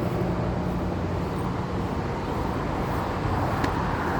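Motor vehicle on the road close by: a steady engine hum that fades after about two seconds while tyre and road noise grows.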